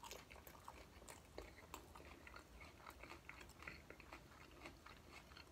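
Faint, close-up chewing of a crisp fried-tortilla chicken taco: many small, irregular crunches and crackles as the shell is chewed.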